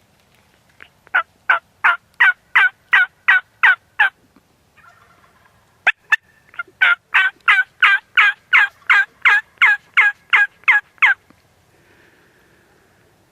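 Turkey yelps from a hunter's call: two loud runs of evenly spaced yelps, about three a second, the second run longer, with a sharp click between them.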